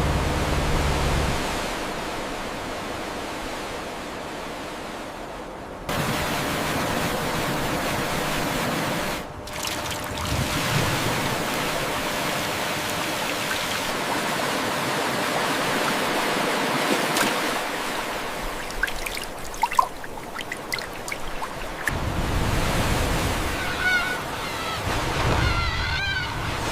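Steady rushing of water like surf or pouring seawater, broken by abrupt cuts a few times, with a few short high squeaks near the end.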